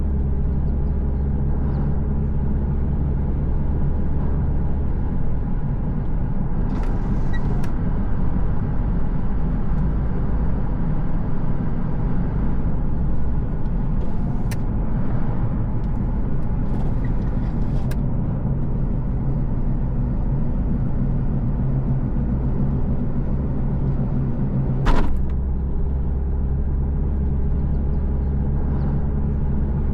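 Car driving, a steady low engine and road rumble. Several brief knocks or clicks break through it, the loudest late on.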